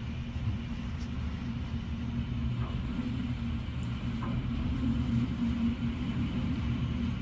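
Steady low rumble of hurricane wind against the house, heard from indoors behind a window, with a low hum under it that swells slightly about five seconds in.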